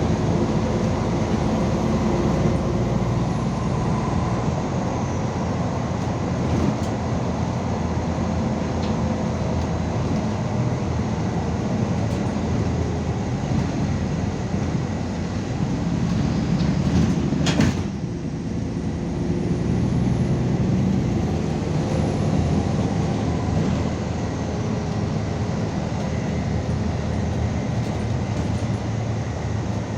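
Cabin noise of a MAZ 216.066 articulated city bus under way: steady engine and road noise, with a thin high whine that rises and falls twice. A single sharp knock comes a little past halfway.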